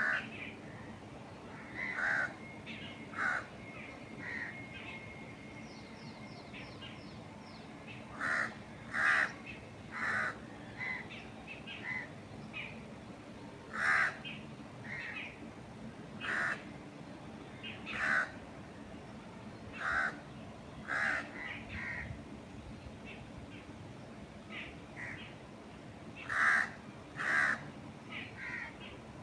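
Birds calling: short, harsh calls repeating about once a second in bouts, with a faint rapid high trill about six seconds in.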